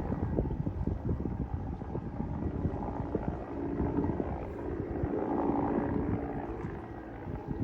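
Wind buffeting the microphone over a low rumble, with a steady hum rising out of it for a few seconds in the middle.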